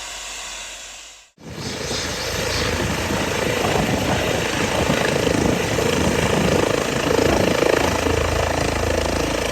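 Helicopter rotor and engine noise with a fast low chop, coming in loud after a short dropout about a second in.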